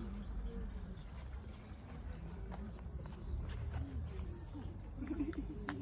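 Small birds chirping in the background, a scatter of short high chirps over a low, steady hum.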